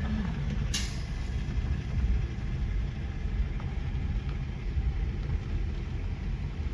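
Car driving, a steady low rumble of engine and tyres heard from inside the cabin, with one brief sharp crack about a second in.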